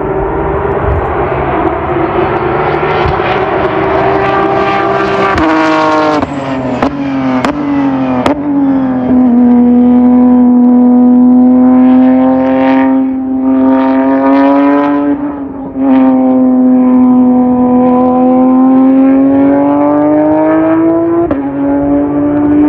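Competition car's engine at full throttle, climbing in pitch and snapping through several quick upshifts, each with a short crack. It then holds steady at high revs, the revs dipping and recovering twice and once more near the end.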